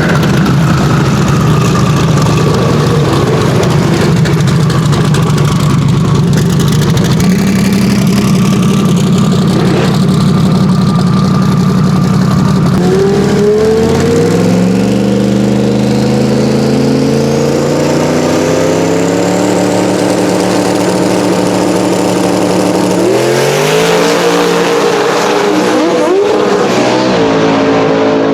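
Drag racing car engine at the strip: a loud, rough rumble for the first half, then the engine revs up in rising steps about halfway through and climbs again near the end before holding steady.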